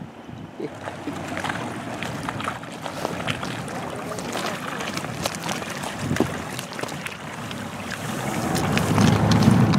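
Water slapping and splashing against a boat's hull with wind noise on the microphone, a string of short sharp splashes over a steady wash, growing louder with a low rumble near the end.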